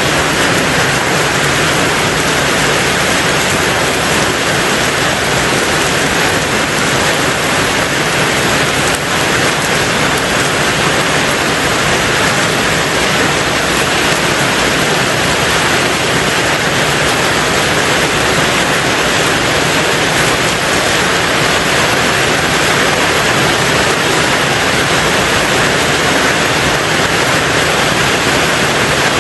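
Steady heavy rain drumming on a tin roof, an even, unbroken hiss with no single drops standing out.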